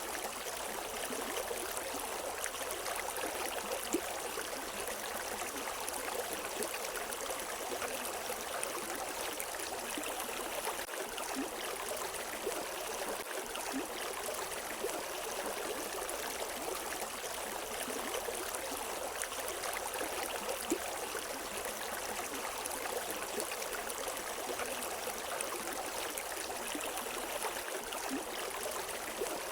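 A river running steadily over rocks, a constant rush of water with small splashes and gurgles.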